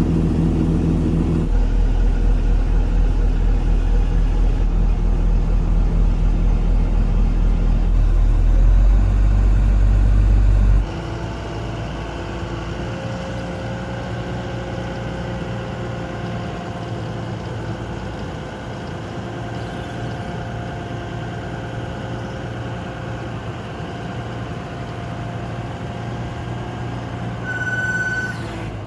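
Linde H140 14-ton diesel forklift's engine running steadily, loud and deep for the first eleven seconds or so, then dropping suddenly to a quieter steady run. A short high tone sounds near the end.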